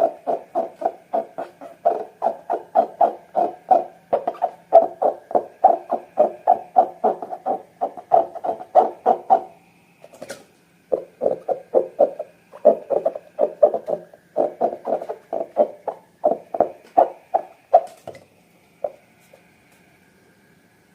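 Slime being squeezed and kneaded by hand, a fast rhythmic squishing about three or four times a second that breaks off briefly about halfway through, with a couple of sharp clicks.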